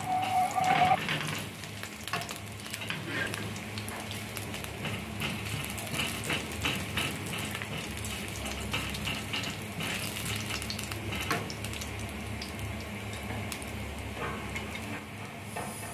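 Slices frying in hot oil in a nonstick wok: a steady sizzle with light crackles, while a spatula stirs and scrapes them across the pan.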